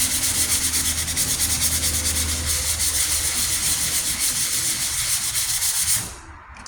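Sanding a steel truck tailgate panel with 220-grit sandpaper, a fast rhythmic scratching to take out coarser sanding scratches; it stops about six seconds in.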